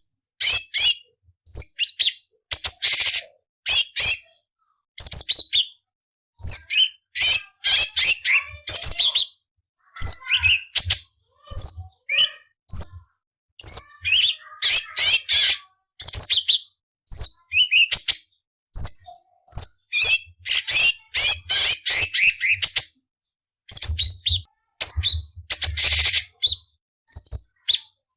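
A cucak cungkok leafbird singing a fast, varied song of short chirps and whistles broken up by harsh, scratchy rasping phrases, with brief pauses between bursts.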